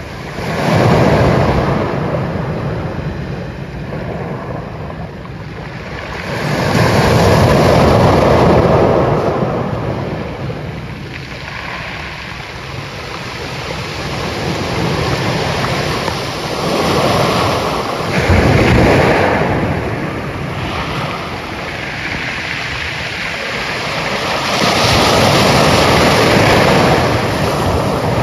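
Ocean waves breaking and washing on the shore, a steady rush of surf that swells up and falls away about four times, each surge lasting a few seconds.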